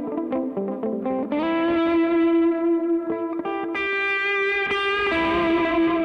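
Electric guitar played through a DemonFX Reverb & Delay Workstation pedal: a quick run of picked notes, then a long held note from about a second in. The held note is re-picked twice and rings on with reverb and delay trails.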